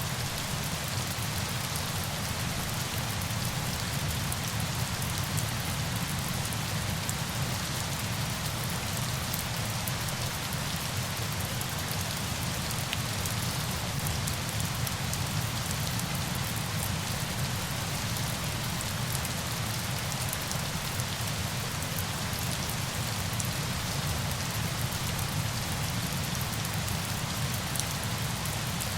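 Steady, unbroken noise of falling water, with no change in level throughout.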